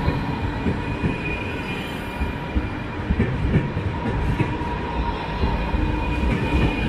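Czech Railways passenger train rolling slowly past along the platform: steady rumble of wheels and running gear with irregular low knocks and a faint steady whine.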